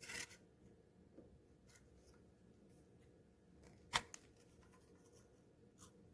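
Near silence with faint scattered rustles and small clicks, and one sharp click about four seconds in, followed by a smaller one.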